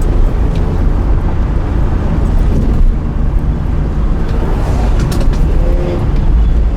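Porsche Carrera GT's V10 engine with an FVD exhaust running, a steady deep rumble.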